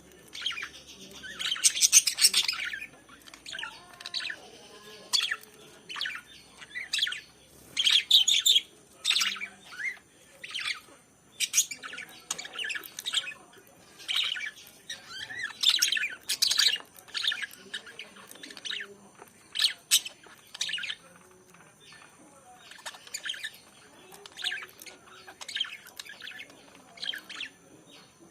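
Lovebirds chirping and squawking: short, shrill calls in quick, irregular bursts, sometimes several birds at once.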